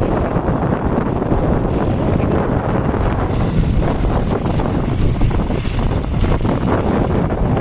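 Heavy wind rushing over the microphone of a moving vehicle: a loud, steady rumble without any clear engine note.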